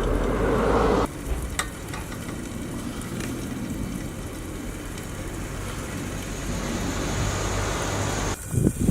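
Bacon and eggs sizzling in a cast-iron skillet over a wood fire, a steady frying hiss with scattered sharp pops. The sound changes abruptly about a second in and again near the end.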